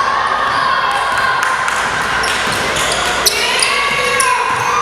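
Basketball bouncing on the court, with several sharp knocks, under a steady din of voices and shouting from players and crowd.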